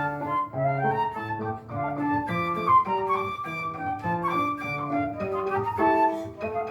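Flute playing a lyrical classical melody over piano accompaniment, the flute's held notes moving over the piano's shorter, fading chords.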